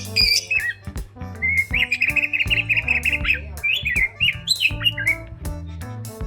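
A small bird chirping and tweeting in quick runs of short high calls, mostly from about one and a half to five seconds in, over background music.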